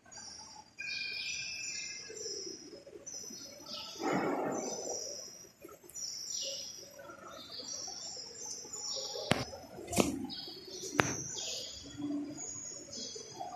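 Small birds chirping repeatedly in short high calls, with three sharp clicks about a second apart in the last third.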